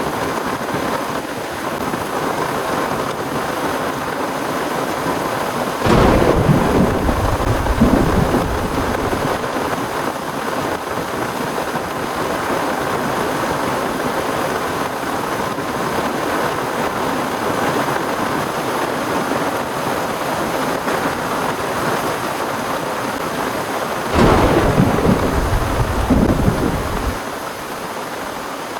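Heavy rain falling steadily in a thunderstorm, with two claps of thunder, one about six seconds in and another near the end, each rumbling for about three seconds.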